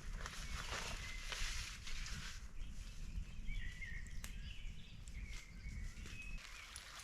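Outdoor woodland sounds: rustling, crunching noises for the first couple of seconds, with a few short bird chirps scattered through and a low rumble underneath.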